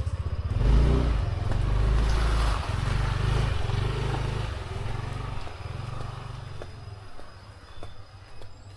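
A motorcycle passing close by: its engine swells within the first second, is loudest for about three seconds, then slowly fades away.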